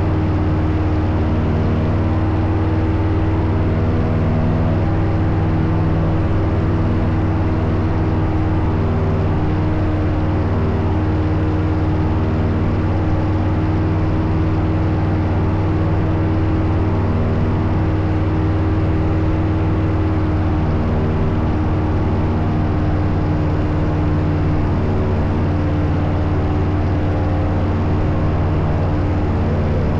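Paramotor engine and propeller running at a steady throttle, a continuous low drone with no letup.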